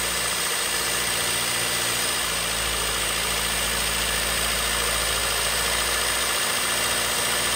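1975 Honda CVCC four-cylinder engine running steadily at idle. The owner reckons its ignition timing is retarded and still needs adjusting.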